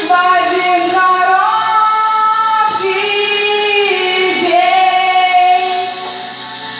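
Song music: a singer holding long, wavering notes over the band's backing.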